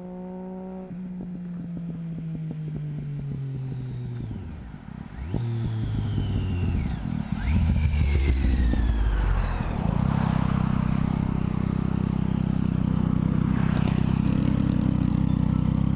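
Triumph Daytona 675's inline three-cylinder engine through a Jardine slip-on exhaust: the engine note falls over the first four seconds, then climbs sharply in a few rising revs as the bike accelerates, and from about ten seconds in it settles into a steady, loud note close by.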